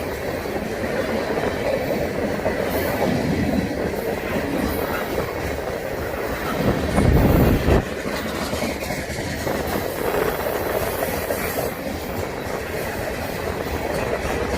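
Freight train cars rolling past, steel wheels clacking over rail joints, with a louder low rumble for about a second midway.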